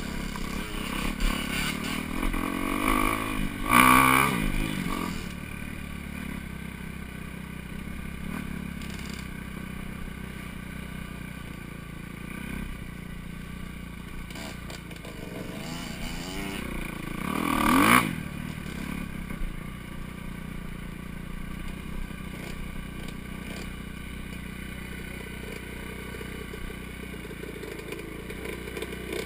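Four-stroke dirt bike engine running along a trail, mostly at a low, steady throttle. It is revved up hard twice, once a few seconds in and again a little past the middle, with some clatter and scraping over the engine.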